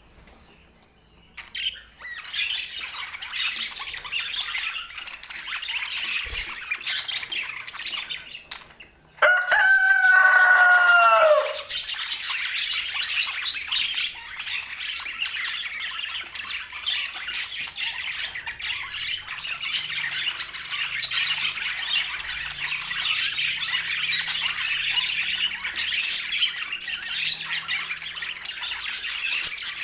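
A flock of budgerigars chattering and warbling, a dense, continuous twitter that starts about two seconds in. About a third of the way through, a louder pitched call lasting about two seconds stands out, falling in pitch at its end.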